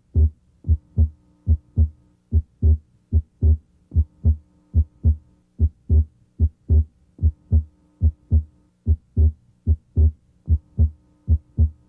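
Heart sounds heard through the diaphragm of a stethoscope at the left second interspace (pulmonic area): a regular rhythm of paired thumps, S1 and S2. S2 is split abnormally wide, and the split comes and goes with the patient's deep breathing. A faint steady hum runs underneath.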